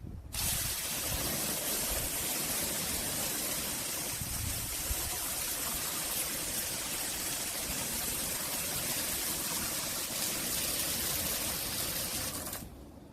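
A steady hissing spray that starts suddenly and cuts off suddenly about twelve seconds later.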